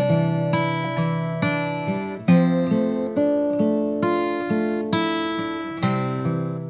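Acoustic guitar music, chords strummed in a steady rhythm of about two strokes a second.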